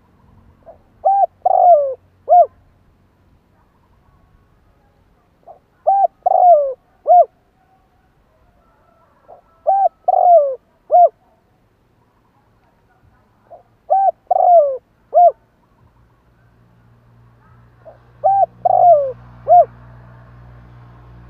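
Spotted dove cooing its territorial call: five phrases about four seconds apart, each a few short coos and one longer falling coo. A low steady hum comes up near the end.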